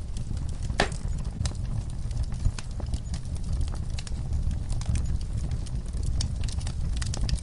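Wood fire burning in a fireplace: a steady low rumble with irregular crackles and pops, one sharper pop about a second in.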